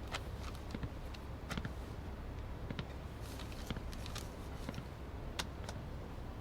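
Faint footsteps and scattered light clicks and knocks of people moving about a quiet room, over a low steady hum.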